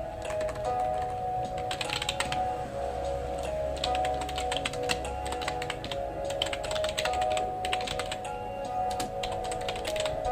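Typing on a computer keyboard in bursts of rapid key clicks, over soft background music.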